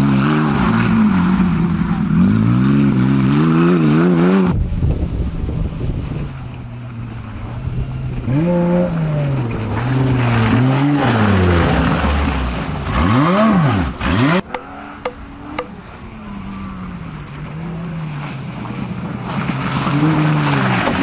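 Off-road rally buggy engines revving hard through mud, the pitch repeatedly rising and falling as the drivers work the throttle. The sound breaks off suddenly about four and a half seconds in and picks up with another car; around thirteen seconds in an engine swoops quickly up and down, followed by a few sharp knocks.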